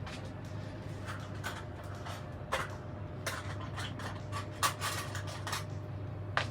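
Short rustling and scraping handling noises, with a few sharp clicks, over a steady low hum.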